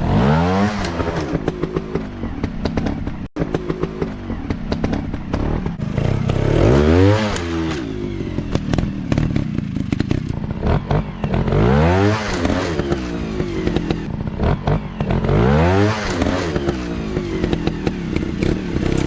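Dirt bike engine revving hard four times, its pitch climbing steeply with each throttle burst, with lower, uneven running between the bursts.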